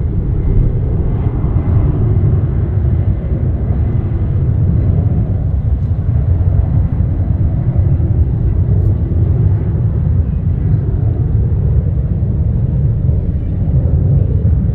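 Jet airliner engines, a loud, steady low rumble.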